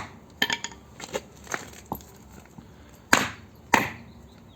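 Hammer blows struck through a wooden block, driving a greased rubber bushing into a car's front suspension arm: several lighter knocks in the first two seconds, then two harder blows about three seconds in.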